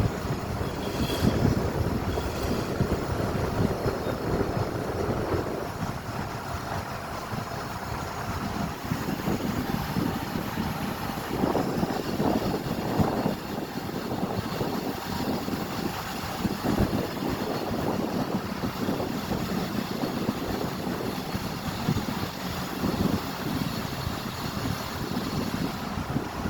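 Downtown street traffic: a steady, shifting rumble of passing vehicles.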